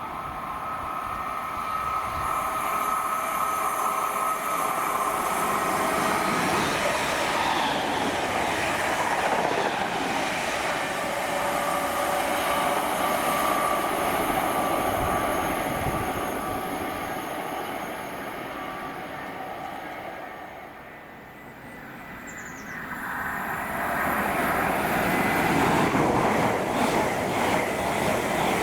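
A train passing at speed, its wheels clattering over the rails with a steady whine. The sound dips about twenty seconds in, then builds loudly again as a train passes near the end.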